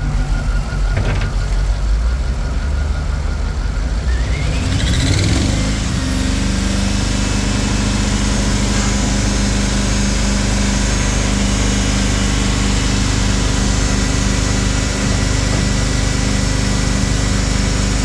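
GM 8.1-litre gasoline V8 engine running. Its pitch rises about four to five seconds in, then it settles into a steady idle.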